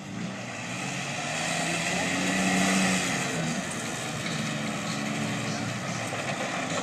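Tough truck's engine revving hard, getting louder to a peak about halfway through, then easing back a little and running on.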